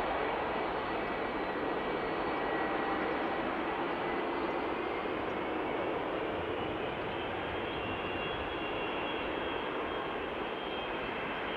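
Landing airplane's engines: a steady rush of noise with a faint high whine that shifts pitch slightly, easing a little toward the end.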